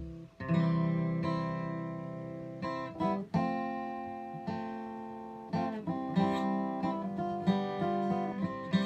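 Acoustic guitar playing the slow instrumental intro to a song: chords are strummed and left to ring and fade, with a fresh strum every second or so.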